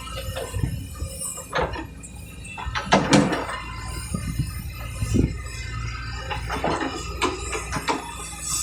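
Kobelco excavator's diesel engine running with a steady low hum, broken by several sudden clanks and knocks, the loudest about three seconds in.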